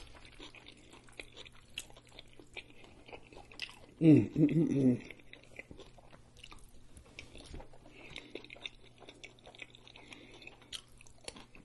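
Close-miked chewing and wet mouth sounds of a man eating forkfuls of a rice-and-meat burrito bowl, with many small clicks. A short hum of voice about four seconds in is the loudest sound.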